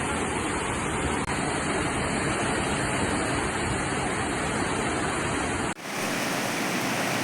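Steady rush of flowing floodwater, a loud even noise. Nearly six seconds in it cuts abruptly to another stretch of water noise that sounds thinner, with less bass and more hiss.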